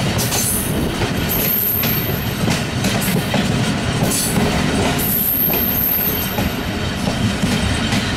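Passenger train running through a station, heard from aboard an open door or window of the moving coach: a steady rumble of wheels on track, with irregular knocks from wheels passing over rail joints.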